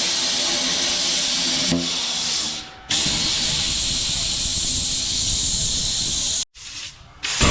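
Electric arc welding: the steady hiss of the welding arc in two runs of a few seconds each. There is a short break about two seconds in, and the sound cuts off suddenly near the end.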